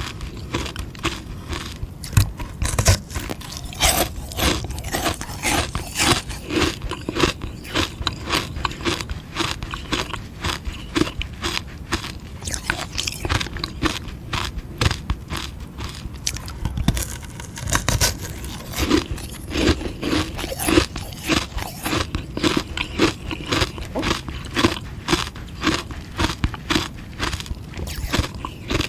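Frozen sugar-water ice being bitten and chewed: a dense, continuous run of crackling crunches in quick succession.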